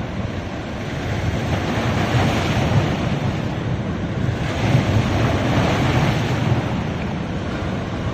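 Ocean surf breaking and washing up a sandy beach in two swells, the first building about two seconds in and the second about four and a half seconds in, with wind rumbling on the microphone.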